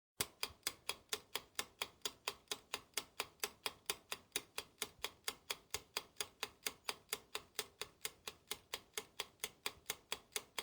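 A clock-like ticking sound effect, even and quick at about four ticks a second, that starts and stops abruptly, as used for a countdown timer.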